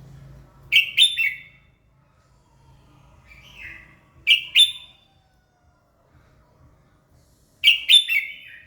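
Red-whiskered bulbul singing: three short, loud song phrases about three and a half seconds apart, with a softer phrase just before the second.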